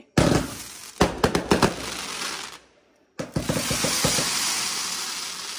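Consumer fireworks going off: a sudden bang, then a quick string of sharp reports about a second in. After a short break, another burst of reports is followed by a long hiss that slowly fades.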